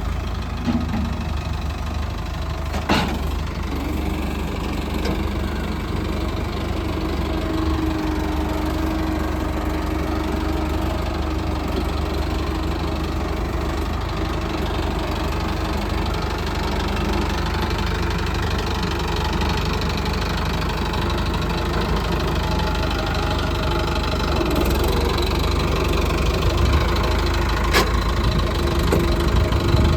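Mahindra tractor's diesel engine running steadily. Two sharp knocks stand out, one about three seconds in and one near the end.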